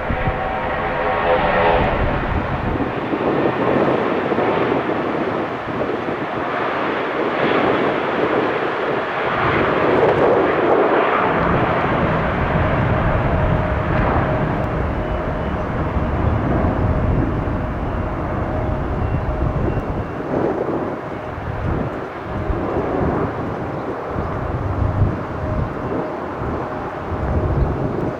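Airbus A320-200 jet engines at takeoff power as the airliner departs, a loud roar that peaks about ten seconds in and then eases, with a steady high whine held through the second half.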